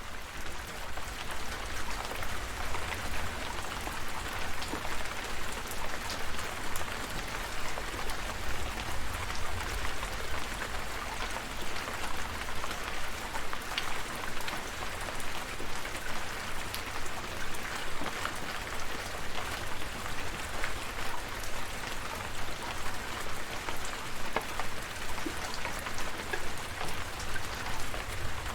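Steady rain falling, with scattered sharp drop ticks over an even hiss and a low rumble underneath.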